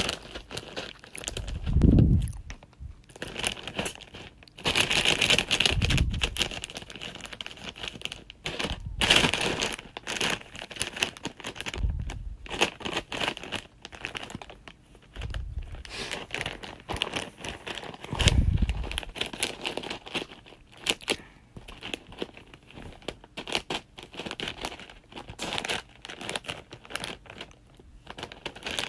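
Irregular crinkling and rustling of crinkly material, continuing throughout, with a few dull low thumps.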